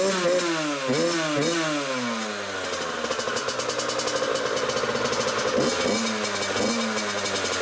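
Freshly rebuilt Yamaha YZ85 two-stroke single-cylinder engine running, revved in several quick throttle blips over the first two seconds. It then drops back to a steady idle, with a few more short blips near the end.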